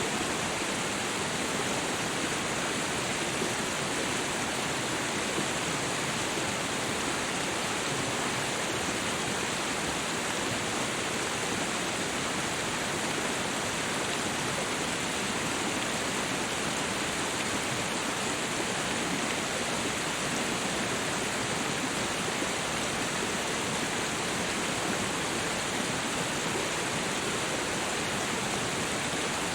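Steady rush of water, a dense even roar that starts suddenly and holds at one level throughout.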